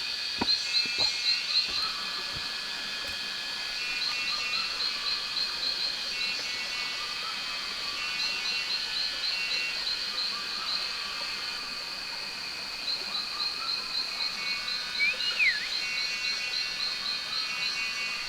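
Rainforest animal chorus: bouts of rapid, repeated high calls over a steady high drone, with one short whistled call rising then falling about fifteen seconds in.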